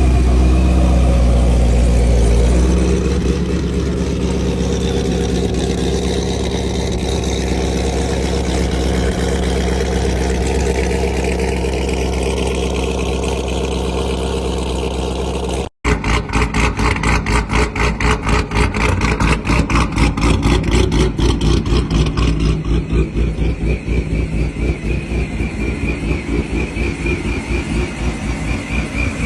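Corvette C7 Z06's supercharged 6.2-litre V8 running at a steady speed, a little louder for the first couple of seconds. After a brief break about sixteen seconds in, a fast, even pulsing throb takes over.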